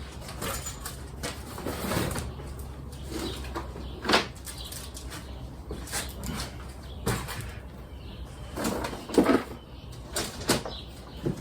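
Rummaging through garage clutter: irregular knocks, clunks and rustling as objects are handled and moved about, with the sharpest knocks about 4 and 9 seconds in.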